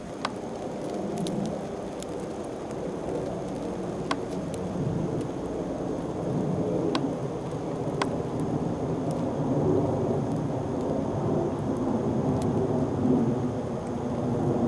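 Blizzard wind gusting across the microphone: a rumbling rush that swells and eases, with a few faint sharp ticks.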